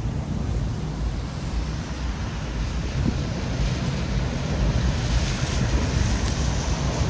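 Heavy tropical-storm rain and wind gusting on the microphone, a steady rumbling hiss that grows heavier and brighter near the end.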